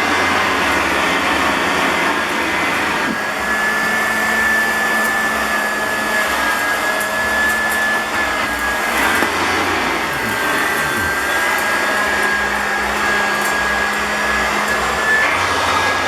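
Clarke Alto upright vacuum cleaner running steadily just after being switched on: a steady rush of air with a high motor whine whose pitch wavers slightly.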